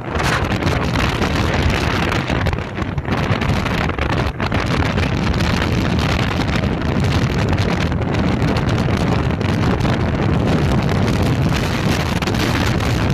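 Steady wind rumble buffeting the microphone, loud and heaviest in the low end, with no break.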